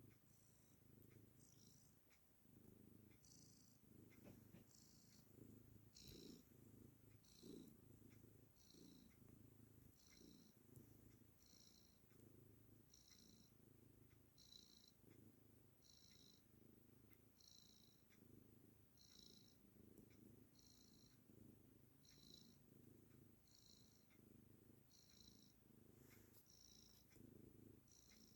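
Domestic cat purring steadily and faintly, the purr rising and falling with each breath about every second and a half: a content, happy cat.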